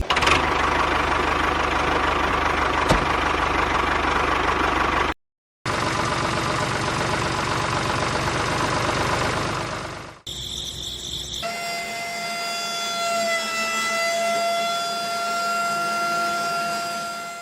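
Small motor of a DIY model tractor running steadily, in several short clips spliced together. In the last part it gives a steady whine that wavers slightly in pitch.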